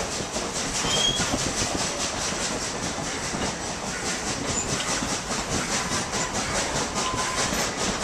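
Narrow-gauge steam train running, heard from a passenger car: a steady rumble of the cars on the track with a rapid, regular beat from the Baldwin 2-8-2 locomotive and wheels.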